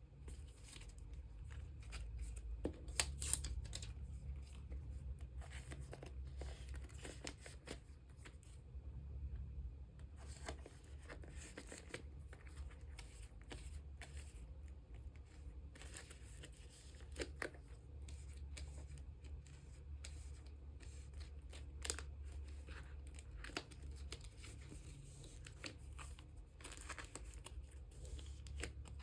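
Plastic card sleeves and binder pages being handled as photocards are sleeved and stored: scattered crinkles, rustles and small taps, over a low steady hum.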